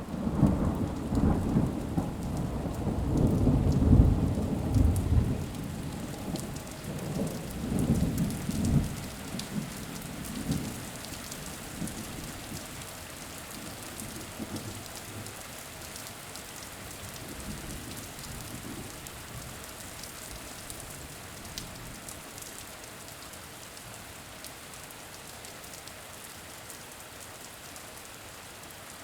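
Thunder rumbling over steady rain: a long roll in the first ten seconds, loudest about four seconds in, then dying away to even, steady rainfall.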